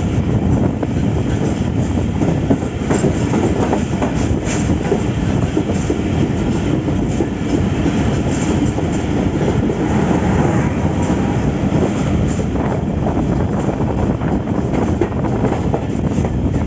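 Moving passenger train, the steady rumble of wheels on rails with scattered clacks over the track joints.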